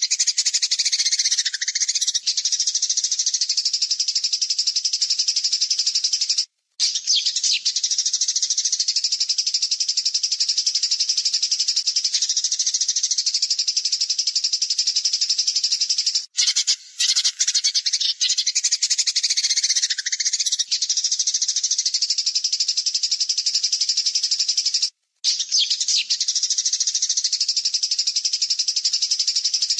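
A songbird's masteran recording: a dense, rapid, harsh trill of high notes going on without pause, the 'tembakan kasar' bursts used to tutor caged birds. It stops dead for a split second about every nine or ten seconds and resumes.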